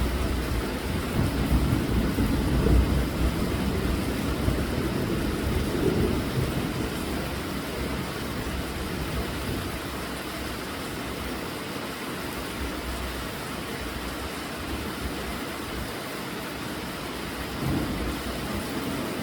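Steady rain falling, with a low rumble swelling through the first few seconds and again briefly near the end.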